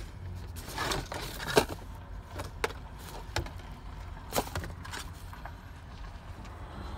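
Handling noise: a string of light clicks, taps and rustles about a second apart, over a low steady rumble.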